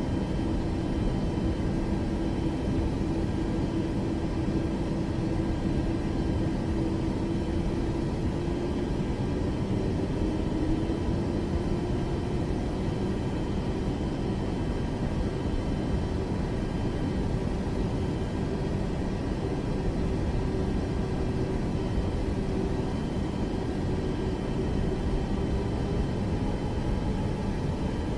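Airplane engines running steadily: a continuous low noise with one held tone that rises slightly about ten seconds in.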